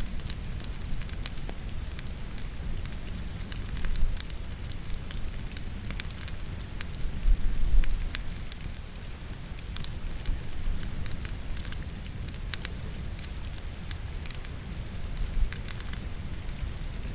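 Logs burning in a fireplace, crackling with frequent sharp pops, over a steady patter of rain. Under them runs a low rumble that swells briefly twice.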